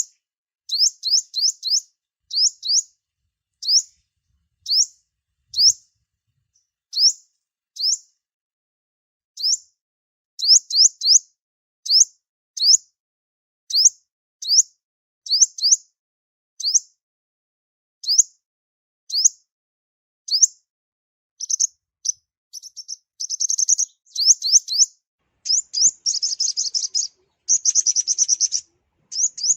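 Sunbird calling: thin, high chirps, each a quick sweep in pitch, given singly or in quick runs of two to four. About two-thirds of the way through they speed up into a fast, almost continuous twittering.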